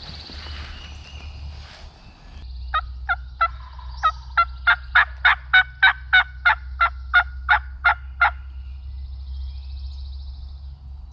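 A long run of about seventeen wild turkey yelps, evenly spaced at roughly three a second, building in loudness and then trailing off.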